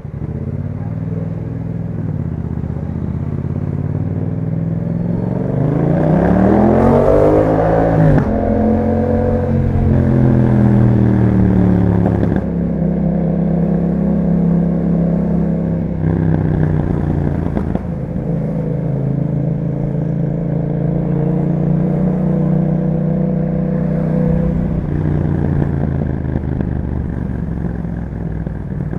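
2021 Yamaha MT-07's parallel-twin engine on the move through an Akrapovic exhaust. It revs up hard about six seconds in, dropping sharply in pitch at an upshift about eight seconds in and again around twelve seconds, then holds a steady cruise before easing off near the end.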